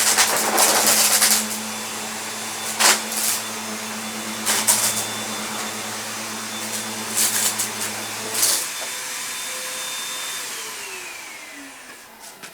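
Vacuum cleaner running and picking up hard debris, with several rattling bursts as pieces are sucked in. About eight and a half seconds in it is switched off, and its motor whine falls in pitch as it spins down.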